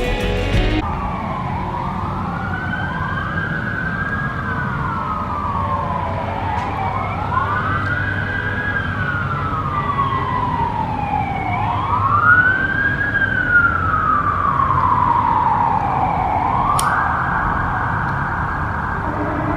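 Emergency vehicle siren wailing, its pitch rising and falling slowly about every four to five seconds, then switching to a steady high tone near the end, over a low rumble of traffic.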